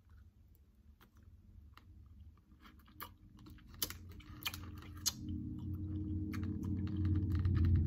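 Chewing a sour apple sour candy strip with the mouth closed: moist, sticky mouth clicks and smacks. A low hum builds in the second half and gets louder toward the end.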